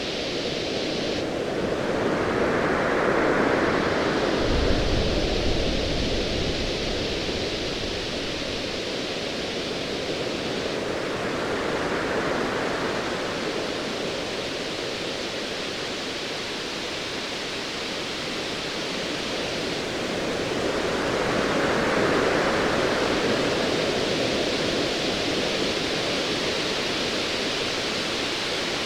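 Ocean waves surging and washing in slow swells about every ten seconds, over a steady hiss of surf. A low rumble of distant thunder comes about five seconds in.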